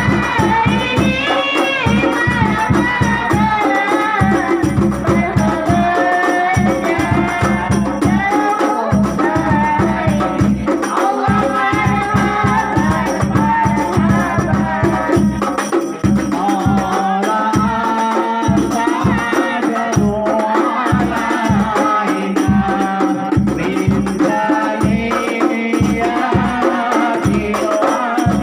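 Sholawat, Islamic devotional singing in praise of the Prophet, with a lead voice over a fast, steady pattern of hand-struck frame drums and jingles, in the rebana/hadrah style.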